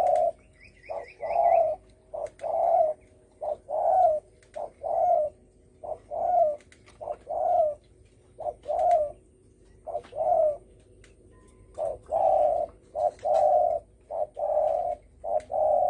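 Spotted dove cooing, low notes repeated in short phrases of two or three. This is the deep 'thổ sấm' call type, used as a lure call to provoke wild doves.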